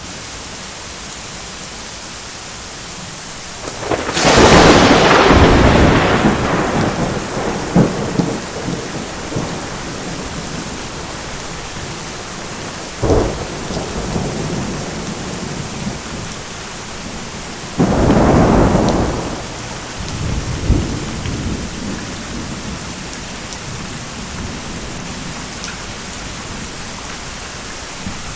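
Steady rain with thunder. There is a loud thunderclap about four seconds in that rolls on for several seconds, a short crack near the middle, and another clap about two-thirds of the way through that rumbles away.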